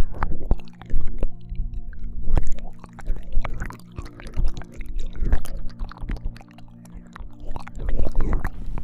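ASMR ear-licking mouth sounds: wet smacks, clicks and slurps in irregular clusters, over soft steady background drone tones.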